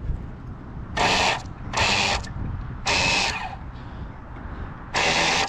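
Electric starter box spinning a Serpent Nova Mega SX21 nitro engine in four short bursts of about half a second each. The engine turns over without firing, priming it by drawing fuel through.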